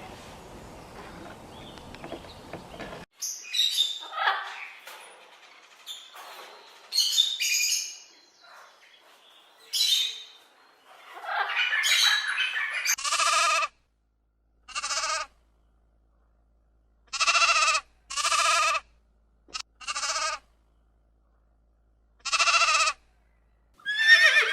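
Animal bleating: a series of about six separate bleats in the second half, each under a second long with a wavering, quavering pitch. Before them comes a jumble of shorter, higher calls, after a sudden cut from outdoor noise about three seconds in.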